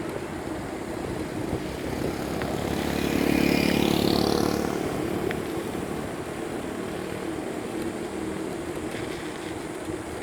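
A motor vehicle passes close by, its engine sound swelling to a peak about three to four seconds in and fading away by about six seconds, over steady wind noise on the microphone.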